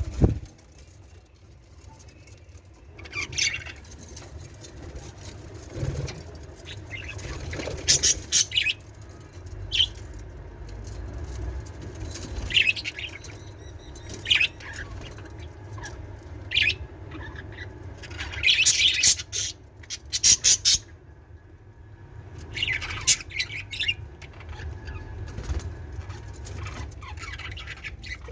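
Pet budgerigars chirping and squawking in short, scattered calls.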